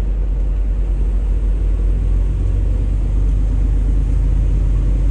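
Semi-truck's diesel engine and drivetrain giving a steady, low rumble inside the cab.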